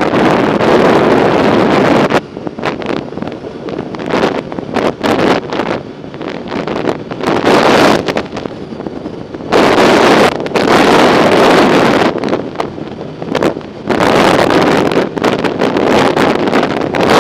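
Wind buffeting the microphone of a camera riding along on a bicycle, coming in loud gusts a few seconds long with choppier, quieter stretches between.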